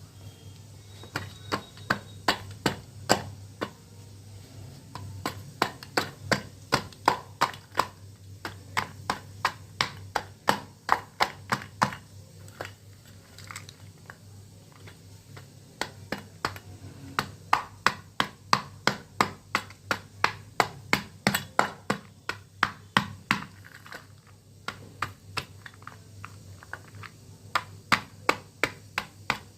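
Brittle dried crumble-art pieces, shaped as a flower, being crunched and crumbled: a run of sharp, crisp cracks, about two or three a second, coming in bursts with a few short pauses.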